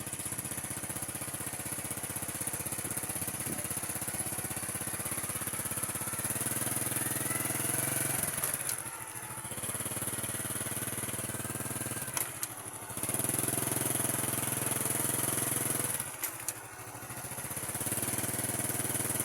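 Small motorcycle engine running steadily, its sound dropping away briefly three times.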